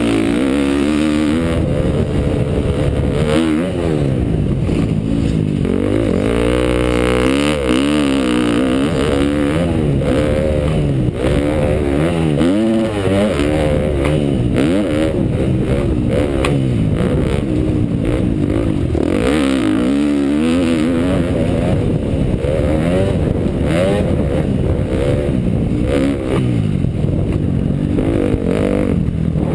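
2012 KTM motocross bike's engine being ridden hard, its pitch rising and falling every second or two as the throttle is opened and closed.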